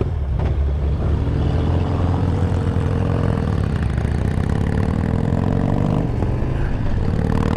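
Harley-Davidson Road Glide's V-twin engine running on the move, its note wavering in pitch, easing off a few seconds in and building again near the end.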